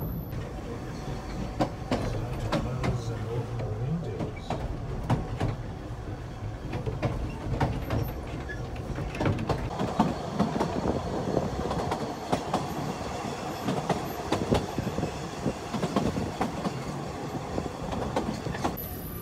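Narrow-gauge railway carriage running along the track: a steady rumble of the wheels with many irregular clicks and knocks over the rails.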